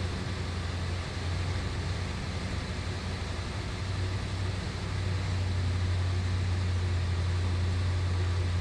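Steady drone of a single-engine Piper Cherokee in flight, heard inside the cabin: a low engine hum under a constant hiss of air, a little louder from about halfway through.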